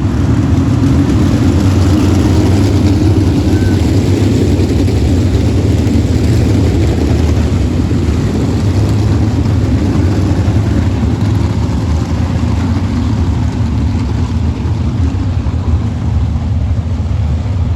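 Sprint cars running at speed on a dirt oval, their engines a loud, continuous, steady roar of several cars together.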